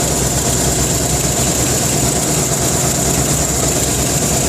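Van engine idling steadily with a loud, rapid tapping, which the owner takes for a lifter or an exhaust manifold fault.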